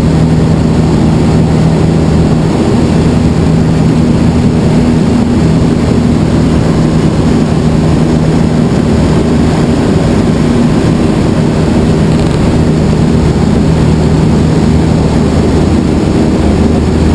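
Skyranger light sport aircraft's engine and propeller droning steadily in flight, with rushing air noise under a constant low hum.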